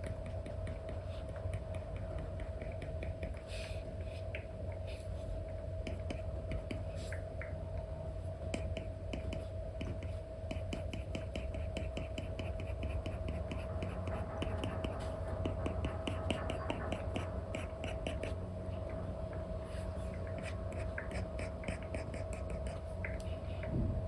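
Apple Pencil nib tapping and stroking on an iPad screen with a paper-like film: a string of light ticks and scratches, with a quick run of taps about halfway through, over a steady background hum.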